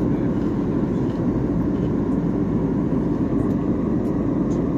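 Steady cabin noise of an airliner in cruise flight: a constant, loud low rush of engine and airflow noise.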